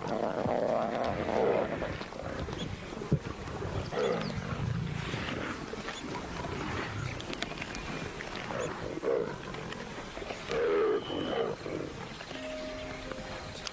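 Lions growling in several short bouts while squabbling over a buffalo carcass they are feeding on.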